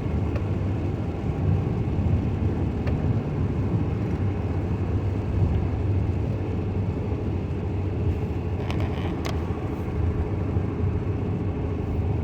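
Steady road noise heard inside a moving car on a rain-wet road: tyre hiss and a low rumble, with a few faint ticks.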